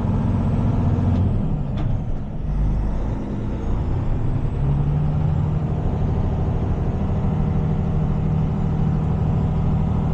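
Heavy tow truck's diesel engine running steadily at low speed while manoeuvring, with a couple of faint clicks about two seconds in.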